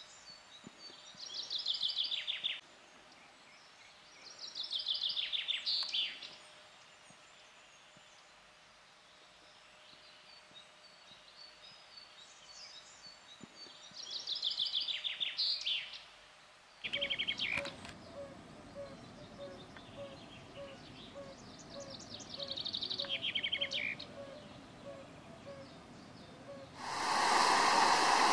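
A songbird singing the same short descending trilled phrase several times, each phrase about two seconds long, over faint outdoor background. Near the end a loud rush of running water sets in.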